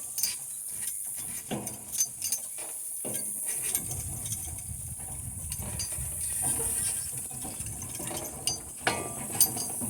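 Metal harness and hitch hardware of a working donkey team clinking and rattling as the donkeys walk on, in many irregular clicks, with a low rumble through the middle seconds. A steady high insect hum runs underneath.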